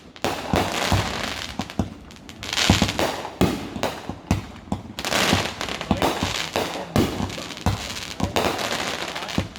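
Fireworks going off in quick succession: many sharp bangs with crackling between them.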